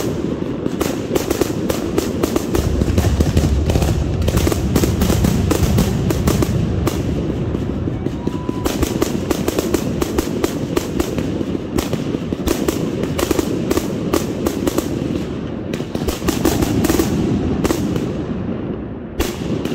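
Consumer fireworks cake firing a long volley: shells launch one after another and burst overhead in a rapid, unbroken string of bangs and crackling.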